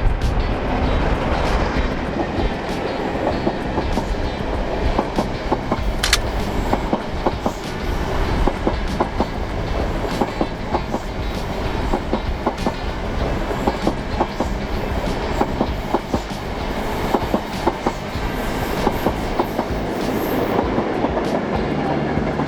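Diesel-hauled train passing: the low engine rumble of the leading Class 47 locomotive, then the coaches clicking rapidly over rail joints. A diesel engine hum returns near the end, from the Class 45 Peak on the rear.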